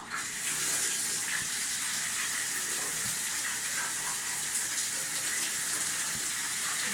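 Shower head spraying water, switched on suddenly and running as a steady hiss: a test run of the just-repaired electric instant water heater.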